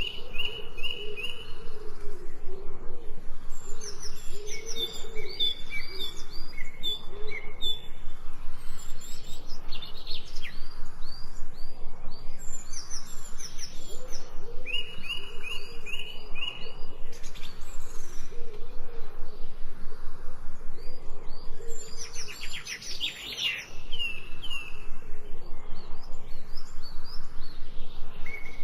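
Several wild birds chirping and singing in short, repeated whistled phrases, over a fast, even pulsing background sound.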